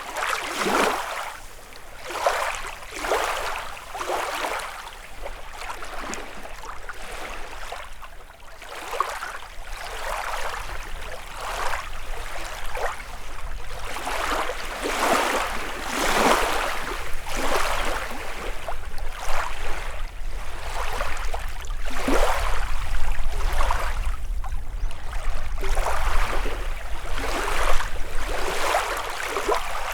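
Small lake waves lapping and splashing against the shore, a splash every second or two, with a low rumble underneath that grows stronger in the second half.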